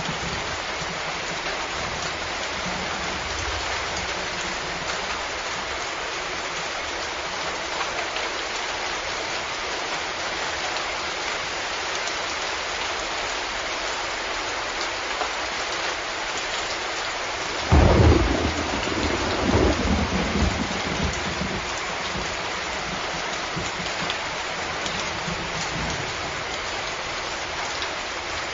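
Steady rain hissing throughout, with a sudden loud thunderclap about two-thirds of the way in, followed by a few seconds of rolling rumble that dies away.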